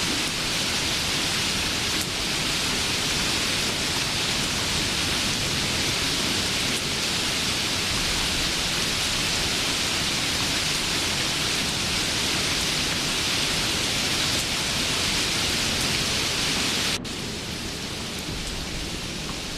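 Steady hiss of falling rain. Near the end it cuts suddenly to a quieter, duller rain hiss.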